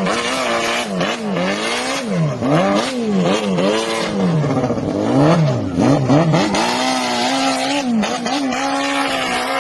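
Motorcycle engine revved up and down over and over, its pitch swinging about twice a second, then held at a steadier, higher speed near the end.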